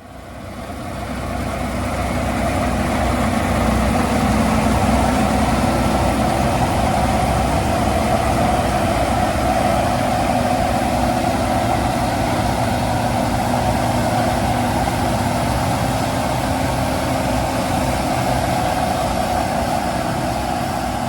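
Fendt Ideal 7 combine harvester running steadily. The sound fades in at the start and eases off slightly near the end.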